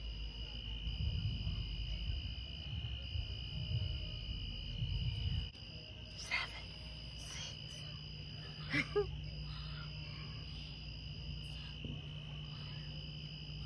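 Crickets or other night insects chirping steadily: one continuous high trill, with a second, higher one pulsing on and off. A low rumble underneath stops about five and a half seconds in.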